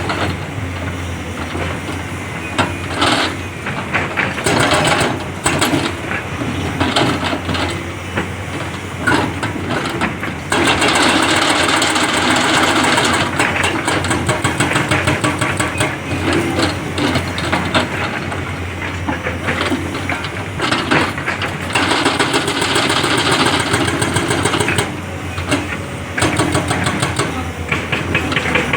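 A working excavator's diesel engine runs throughout, with clanking strokes. Its sound rises to two longer loud stretches, about a third and three-quarters of the way through.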